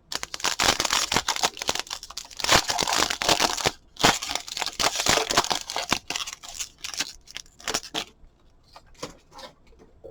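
A football trading-card pack being torn open, its wrapper crinkling and crackling for about six seconds with a short break in the middle. It tails off into lighter, separate rustles and clicks as the cards are handled.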